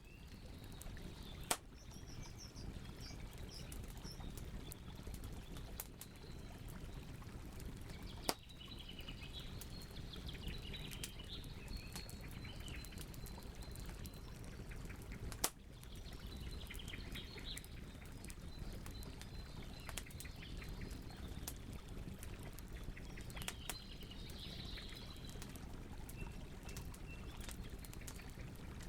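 Wood campfire burning with a steady low rush and fine crackling, with three sharp pops several seconds apart. Small birds chirp in the background in short spells.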